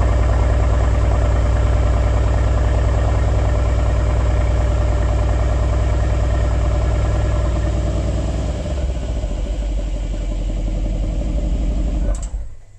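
Mercedes-AMG GLC 63 S's 4.0-litre twin-turbo V8 idling on a cold start, heard close at the exhaust tips: a steady deep rumble that is switched off near the end and stops suddenly.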